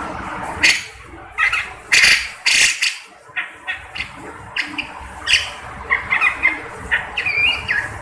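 Cucak jenggot (grey-cheeked bulbul) giving a run of short, harsh squawking calls in quick, uneven succession.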